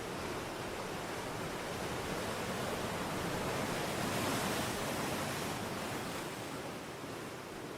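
Steady rushing wind noise on the microphone of a moving motorcycle, swelling a little midway.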